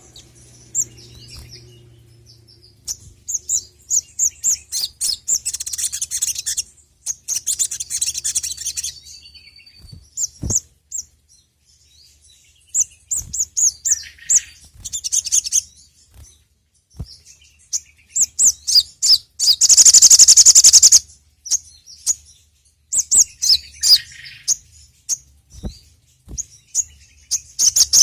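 Sogon (sogok ontong), a small nectar-feeding songbird, singing in fast, high chirping runs and trills with short pauses between them, and one dense, loudest burst of rapid trilling about two-thirds of the way through. It is the energetic full song that keepers play as a lure to set their own birds singing.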